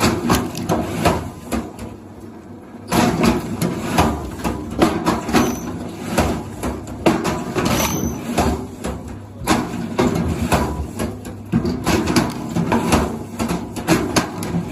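Repeated irregular wooden knocks and clatter over a steady low hum, with a short lull about two seconds in.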